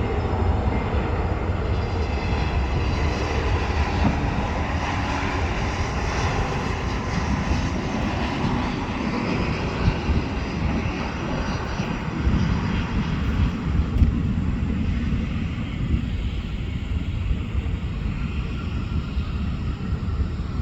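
Boeing 737-800's CFM56-7B26 turbofan engines running as the jet flies past: a steady jet roar with a strong low rumble and a faint whine above it, slowly easing off in the last seconds.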